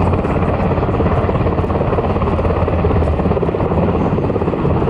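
HH-60G Pave Hawk helicopter's twin turboshaft engines and rotor blades running, a loud, steady, rapid chop.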